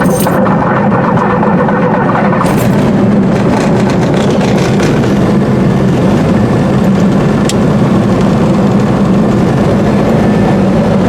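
Steady, loud cockpit drone of a motor glider, with a strong low hum and a couple of faint clicks.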